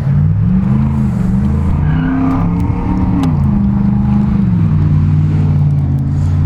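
Motorcycle engine running, its pitch rising and falling a few times in the first half, then settling to a steady tone.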